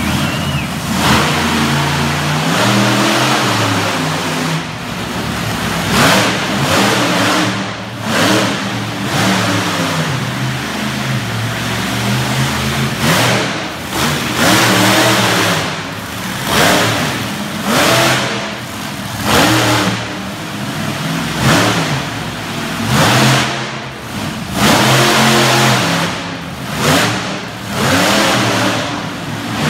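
Monster truck engine revving hard again and again, its pitch climbing and falling every second or two, with a loud burst of noise at each peak.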